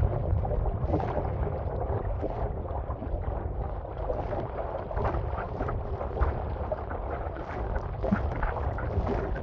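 Wind buffeting the microphone in a constant low rumble, over irregular splashing and slapping of choppy water against an Old Town Vapor 10 kayak and its paddle.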